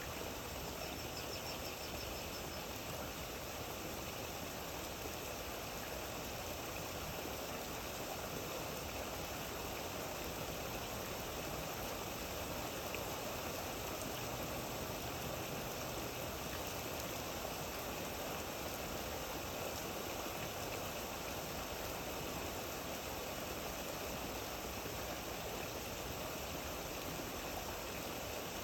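Steady rain falling, an even, unbroken hiss with no distinct drops or breaks.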